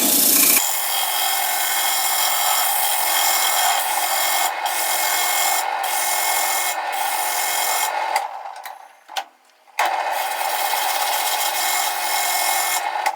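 Hand-held sandpaper pressed against the face of a plywood disc spinning on a wood lathe: a steady, loud rasping hiss over the lathe's running hum. It breaks off for a second or so about two-thirds of the way through, then resumes.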